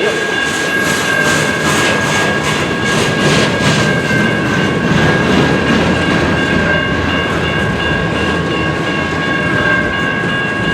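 CN freight train rolling past: steady wheel-and-rail noise with clacking over the rail joints, strongest in the first few seconds, and a steady high tone held throughout.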